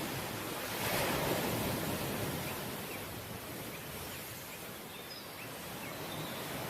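Ocean surf: a wave breaks and washes in about a second in, the wash fades through the middle, and the next wave builds near the end.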